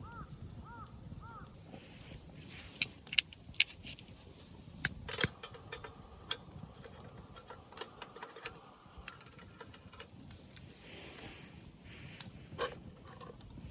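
Light clinks and knocks of handled metal, in scattered clusters, the loudest about three and five seconds in. A few short chirps sound right at the start.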